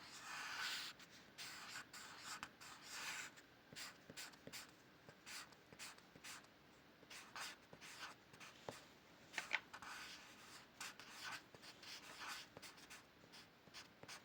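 Faint drawing strokes on paper: a drawing tool scratching in short, irregular strokes, with a few small taps.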